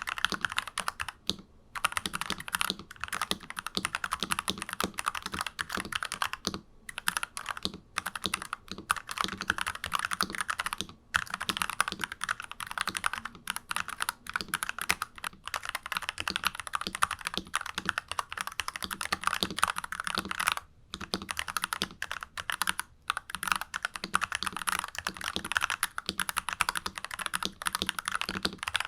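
Fast continuous typing on a NuPhy Halo 96 mechanical keyboard fitted with unlubed Alpaca linear switches, a dense stream of key clacks with a few brief pauses.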